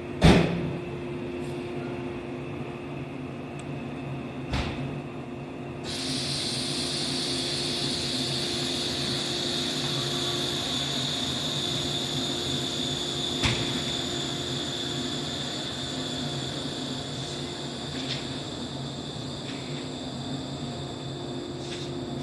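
Standing 115-series electric train running with a steady hum. There is a sharp clunk at the start and a smaller knock about four seconds later. About six seconds in, a continuous hiss like escaping compressed air suddenly starts and keeps going, with another light knock partway through.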